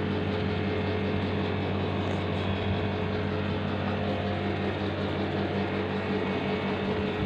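A steady, unchanging low hum with a hiss over it, like a motor or fan running.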